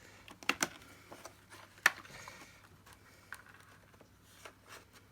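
Plastic parts of a Dyson DC50 cleaner head being handled: a few scattered clicks and knocks, the sharpest about two seconds in, over a faint steady low hum.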